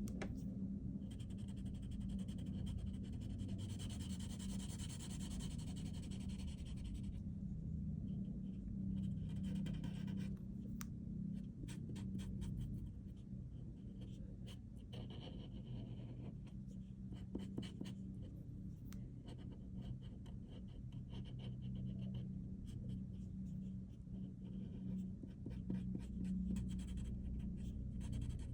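A pen drawing on paper in short scratchy strokes, with longer stretches near the start and again around the middle, over a low steady hum.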